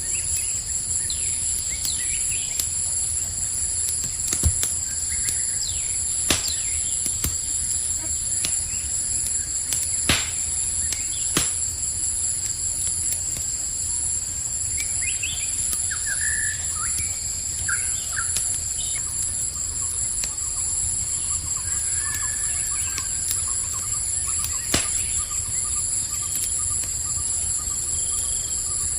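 Campfire crackling, with about five sharp pops scattered through it, over a steady high-pitched trilling of crickets. A few short bird chirps come in around the middle.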